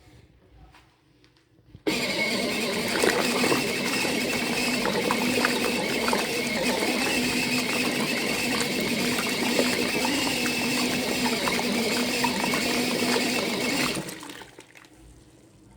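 Foldable mini washing machine switching on about two seconds in and running steadily with a motor hum and churning water, then shutting off and winding down near the end.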